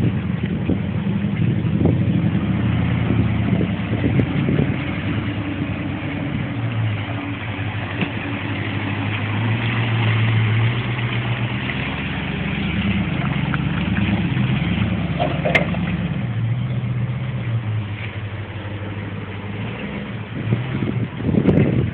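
Classic Range Rover's engine running at low revs as it crawls off-road through mud, its pitch and loudness rising and falling with the throttle. A few short knocks come near the end.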